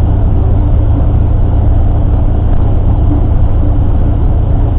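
Steady low rumble of a tour bus's engine and road noise, heard from inside the moving bus.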